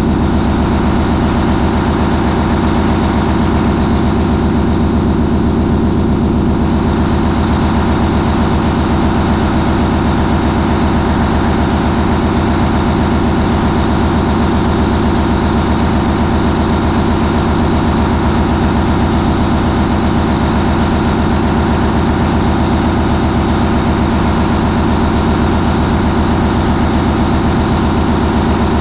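MAN 20V28/33D STC twenty-cylinder V diesel main engine of a high-speed ferry running at a steady 940 RPM under its sequential turbochargers, a loud, even drone with no change in speed.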